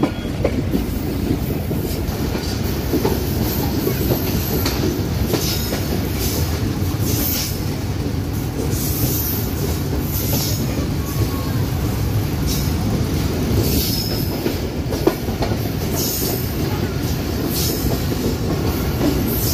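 Passenger train coach running along the line: a steady rumble of steel wheels on the rails, with short high-pitched wheel squeals coming every second or two.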